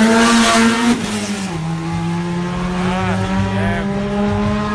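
Race car engines running in the pits, a steady engine note that drops in pitch about a second and a half in, with a couple of short rev blips around the middle.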